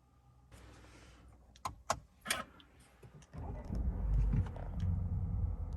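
A few sharp clicks, then the Mercedes-Benz CLA180's 1.4-litre turbocharged four-cylinder engine is started about three seconds in. It catches with a brief rise in revs and settles into a steady cold idle.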